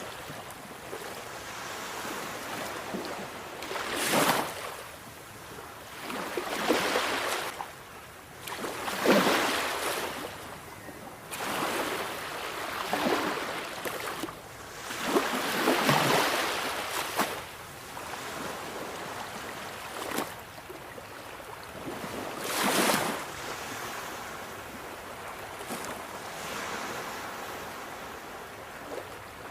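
Sea waves breaking and washing in, a loud surge of surf every few seconds with a softer rush between.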